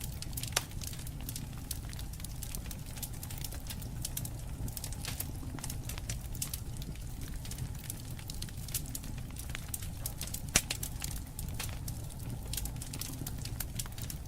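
Wood campfire crackling steadily over a low rumble of flame, with two louder pops, one about half a second in and one near ten and a half seconds.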